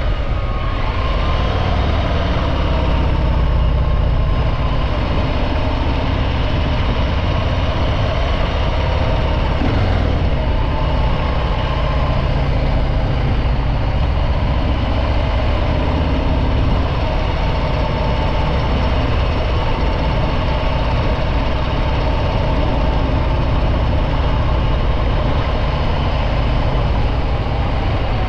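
Harley-Davidson Breakout 114's Milwaukee-Eight V-twin engine through its stock exhaust, running steadily while the motorcycle is ridden, its pitch easing down a little in the first couple of seconds and then holding fairly even.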